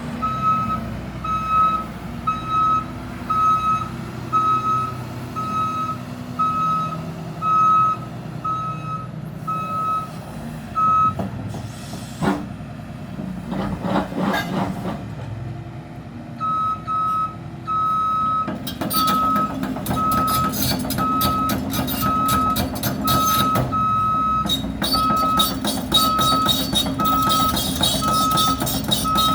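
LiuGong excavator's travel alarm beeping steadily, about three beeps every two seconds, over its Cummins six-cylinder diesel engine running. The beeping stops for a few seconds near the middle while metal clanks are heard, then resumes with a continuing metallic clatter.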